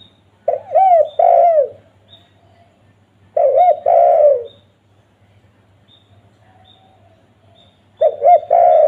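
Spotted dove (tekukur) cooing: three phrases of a few arched coo notes each, about a second long and a few seconds apart, the last running on past the end.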